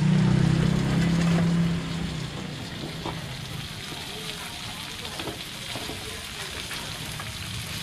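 Crêpe batter for khanom bueang yuan frying in hot oil in two woks: a steady sizzling hiss with faint crackles. A low steady hum lies over it and stops about two seconds in.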